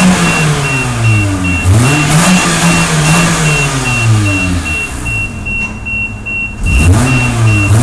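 Car engine revved hard in park, rising about a second and a half in, holding, easing back around four to five seconds, then revving again near the end, to blow built-up dirt and soot out through the muffler. A fast repeating high beep sounds through most of it.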